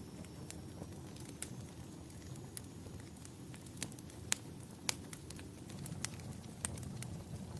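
Wood fire burning in a fireplace, with a steady low rumble and irregular sharp crackles and pops, the loudest about four and five seconds in.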